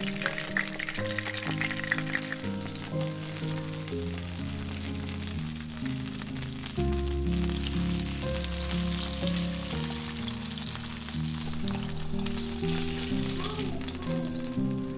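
Ground-beef corn tortilla quesadillas sizzling and crackling in shallow frying oil in a pan. The crackle is busiest in the first couple of seconds, and background music plays throughout.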